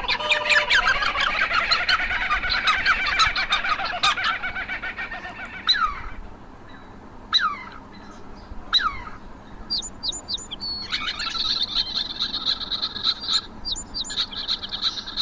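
Birds chirping and twittering: a dense, fast chatter for the first several seconds, then a few single calls that fall in pitch, and rapid high trills near the end.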